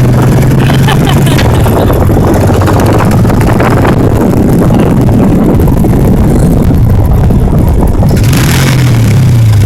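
Motorcycle engine running steadily on the move, buried in heavy wind rush on the microphone; the engine note dips and rises briefly near the end.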